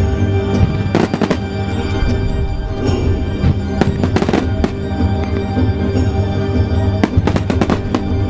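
Starmine fireworks going off in rapid crackling clusters over music played for a music-synchronised display. The bursts come in three groups: about a second in, around four seconds in, and about seven seconds in.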